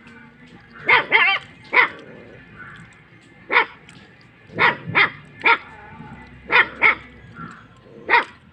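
Kattaikaal landrace dog barking on guard: about ten loud, sharp barks in irregular bursts, some in quick pairs, with one drawn-out wavering cry just after the first bark.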